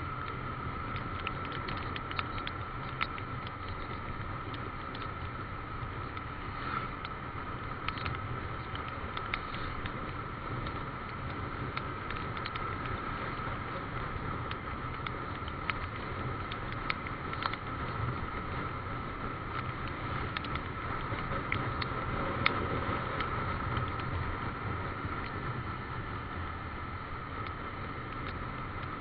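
Motorcycle on the move in the rain: a steady low engine and road rumble with a constant high tone over it, and scattered ticks of raindrops hitting the microphone.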